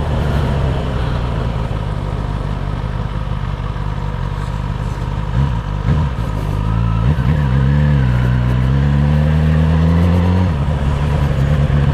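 Suzuki GSX-S1000 inline-four engine running while the motorcycle is ridden, after repairs to its misfiring and idle. Partway through the engine pitch rises as it pulls harder for about three seconds, then drops suddenly at a gear change and settles.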